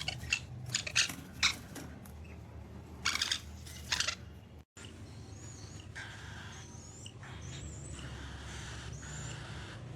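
A parrot's calls: a few short, sharp squawks in the first half, then faint short chirps in the second half.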